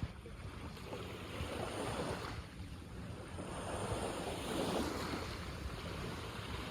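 Sea waves washing in two swelling surges, with wind rumbling on the microphone.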